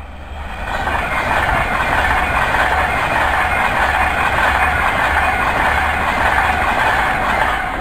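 Class 390 Pendolino electric train passing through at speed. Its wheels on the rails and the passing carriages grow loud over the first second, then hold a steady, loud rush.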